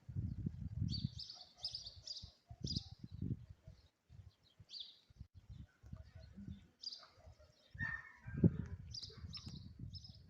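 Small birds chirping: short high chirps in quick clusters, over intermittent low rumbling, with a louder low thump about eight seconds in.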